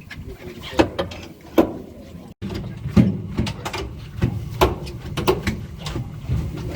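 Irregular knocks and clatter on the deck of a fishing charter boat, several sharp bumps about a second apart, over a steady low rumble. The sound cuts out for an instant a little over two seconds in.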